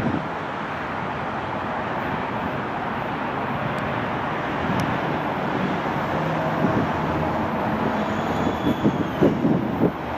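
Long Island Rail Road train moving past with a steady rumble, a brief falling whine and some uneven low knocks near the end.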